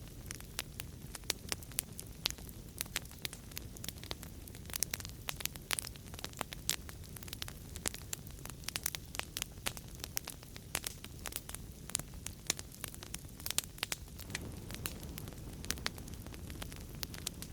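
Wood fire burning in a fireplace, with a steady low rumble of flames and many sharp, irregular crackles and pops, several a second.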